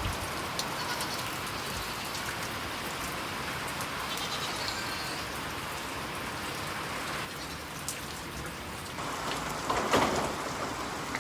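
Heavy rain drumming on a metal barn roof: a steady, dense patter of drops. There is a short louder sound about ten seconds in.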